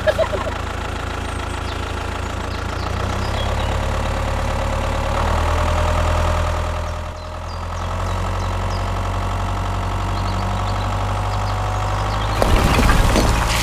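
Engine running steadily with a low hum, dipping briefly about halfway through, with a faint whine rising slowly in pitch later on.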